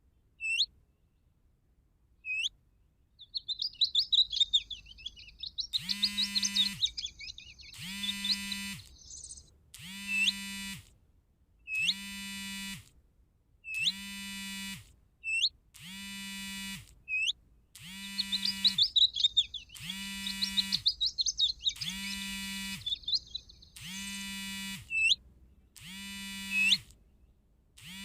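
Bird-call playback from an electronic caller, looping a recording of birdsong. A buzzy note repeats about every two seconds, with short rising chirps between, and there are two stretches of fast warbling song.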